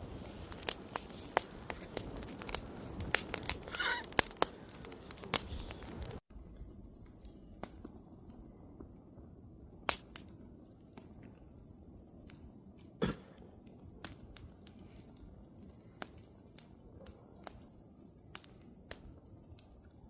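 Wood campfire crackling with many sharp pops. It drops out for an instant about six seconds in, then goes on more quietly with occasional louder pops.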